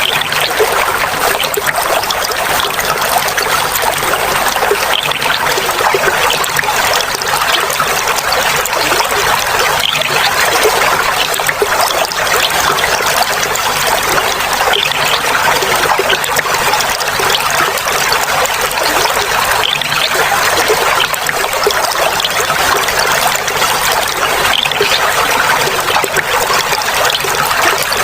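Clear water trickling and splashing steadily over stones in a small stream.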